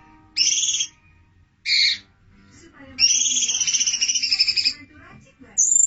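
Wild songbird calls from a bird-song tutoring recording: two short, high calls, then a long rapid trill of nearly two seconds, and a brief high rising note near the end.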